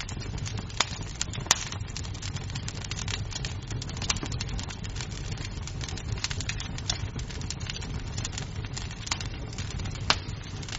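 Wood fire in a fireplace crackling: a steady low rumble of flames with many small snaps and a few louder pops, the loudest about a second and a half in and near the end.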